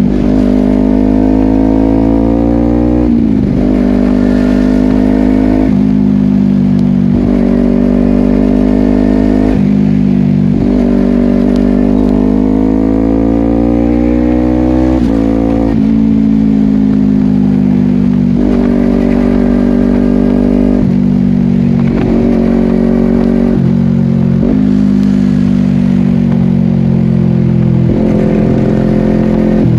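Honda CBR250RR parallel-twin engine through a Yoshimura exhaust, running under way: its pitch climbs with the throttle and steps abruptly at each quickshifter gear change, about eight times.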